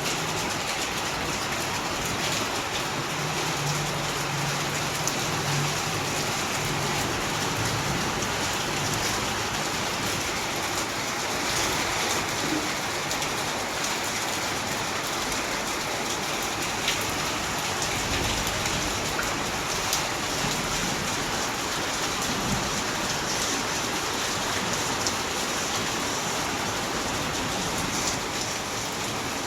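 Heavy rain pouring steadily onto hard surfaces, a dense even hiss with scattered louder drop splashes.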